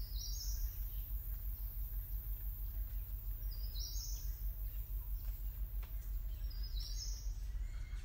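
A small bird's short, high, falling trill, three times about three and a half seconds apart, over a steady low rumble of outdoor ambience.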